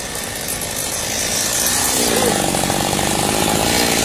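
Small engine of a mini motorbike revving up, its pitch rising and getting louder about two seconds in, then running fast.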